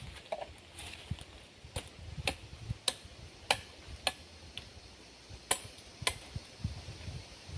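A series of sharp clicks or snaps, about eight in all, coming irregularly every half second to second over a faint low rumble.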